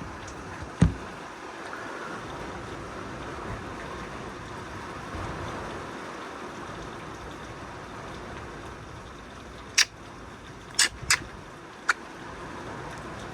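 Heavy thunderstorm rain falling steadily, with a thump about a second in and a few sharp clicks near the end.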